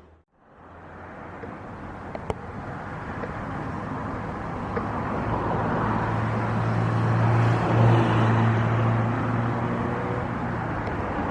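Jet airliner engines growing steadily louder as the aircraft comes closer, a wide rushing roar with a low steady hum under it. A single sharp click about two seconds in.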